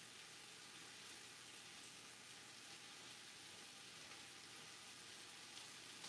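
Faint, steady sizzle of onions and garlic sautéing in a pan.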